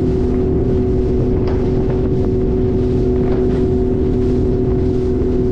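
Speedboat engine running at a steady pitch while under way, over a low rush of wind and water noise.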